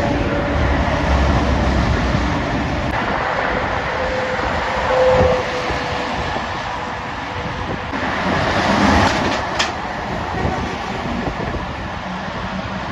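Heavy trucks passing at speed on a main road: engine and tyre noise that swells as they go by, peaking about five seconds in and again around nine seconds.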